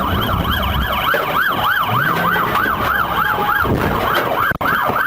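Police car siren in fast yelp mode, its pitch sweeping up and down about four to five times a second, over engine and road noise. The sound cuts out for an instant near the end.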